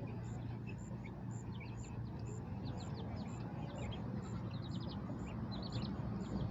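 Baby chicks and ducklings peeping in quick, high-pitched runs of short peeps, on and off throughout.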